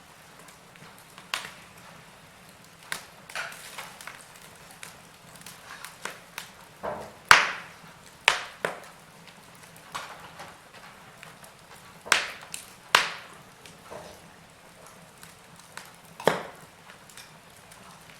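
Wood fire crackling in a fireplace: irregular sharp pops and snaps over a faint hiss, the loudest pops falling around the middle.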